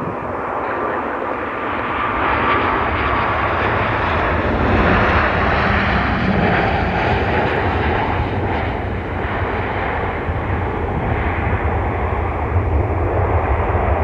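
Airliner's engines passing close by: a steady drone with a low rumble underneath, growing a little louder about five seconds in.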